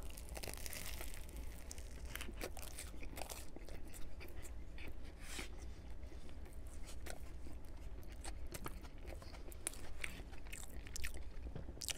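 A person biting into a tuna sub sandwich and chewing it, with a run of small crisp clicks and smacks.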